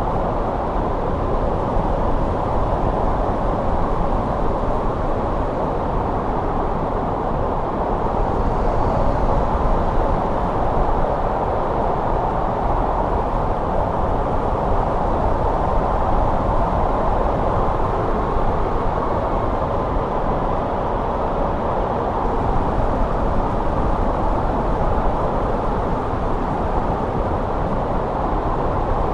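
Snowstorm wind blowing as a steady, low rush of noise, even throughout with no distinct gusts.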